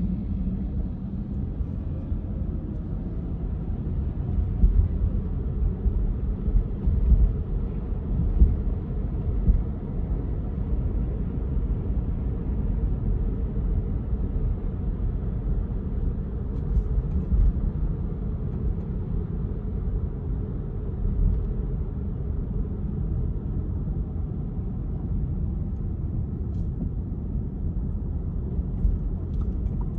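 A car driving, heard as a steady low rumble of engine and road noise, with a few louder surges in the first third.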